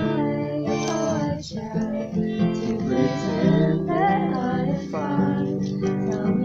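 Acoustic guitar strummed steadily through a song, with a melody line carried over the chords.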